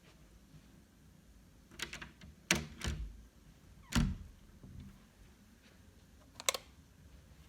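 A few sharp clicks and knocks of small objects being handled and set down, with a heavier thump about four seconds in and a last sharp click near the end.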